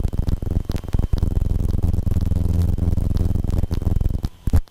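Cockpit noise of a Cessna 150/152 climbing out after takeoff, picked up through the intercom headset microphone: a rough, rapidly pulsing rumble that drops out briefly about a second in and fades near the end.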